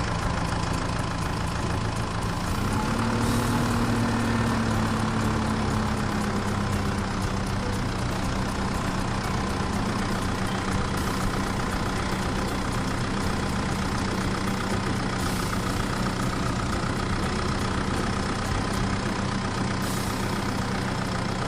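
A truck engine running steadily; about three seconds in its pitch rises briefly, then settles back to a steady hum.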